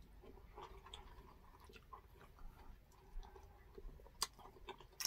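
Faint close-up chewing and small wet mouth clicks of people eating with their hands, with a sharper click about four seconds in and another near the end.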